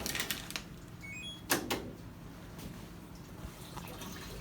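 Clicks and a knock from a top-load washing machine's lid and lid lock being worked, the strongest knock about a second and a half in, with a few faint short high tones stepping upward just before it, over a steady low hum.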